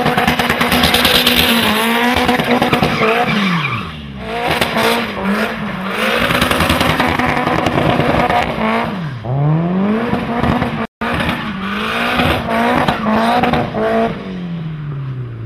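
Tuned 500whp Toyota Celica ST205 GT-Four engine revving hard under load, its pitch climbing and dropping again and again through the gears. The engine note falls away in a long drop near the end.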